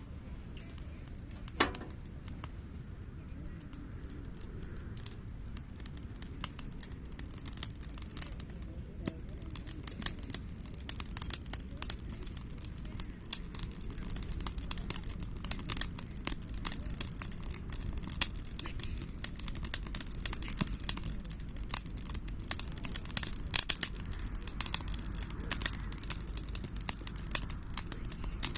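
Wood bonfire burning and crackling, with sharp pops that come thicker after about ten seconds, over a low steady rumble.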